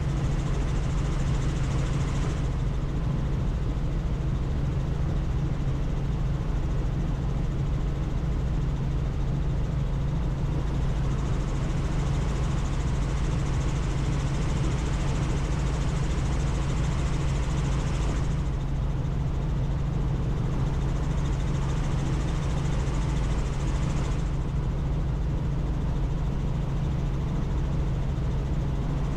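Helicopter in flight: the steady drone of the rotor and turbine engine from inside the cabin, with a rush of air that swells and fades several times.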